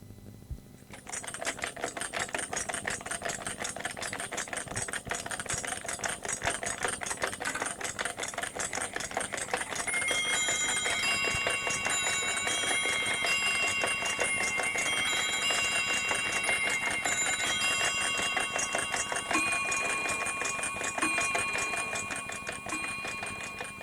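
A sound-effect recording of a fast, dense mechanical clatter, like a machine clicking rapidly. About ten seconds in it is joined by a string of electronic beeps that hop between several pitches.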